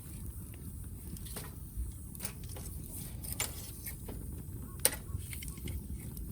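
Firewood burning in an open fire, crackling with scattered sharp pops, the loudest a little under five seconds in, over a low steady rumble.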